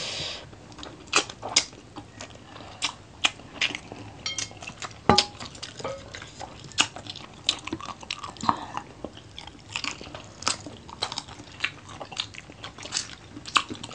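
People chewing and biting fried adobo chicken feet close to the microphone: irregular sharp crunches and wet mouth clicks, a few a second, the loudest about five seconds in.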